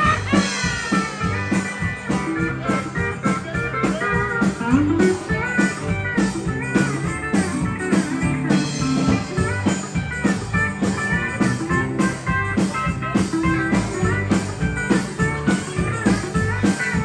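Country band's instrumental break: a lead guitar solo playing quick melodic runs over bass and a steady drum beat.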